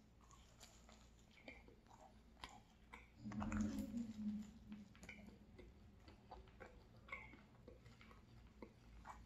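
Faint close-up mouth sounds of a person chewing pizza, with small wet clicks throughout. About three seconds in comes a short low hum.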